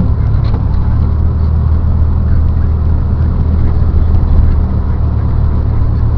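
Steady car engine hum and road noise heard from inside the cabin while driving.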